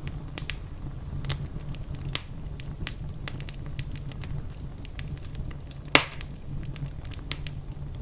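Wood fire crackling in a fireplace: scattered sharp pops over a steady low rumble, with one loud pop about six seconds in.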